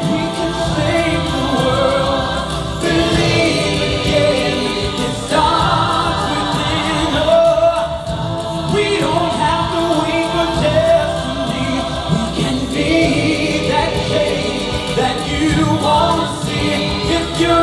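A vocal group singing in harmony over instrumental backing.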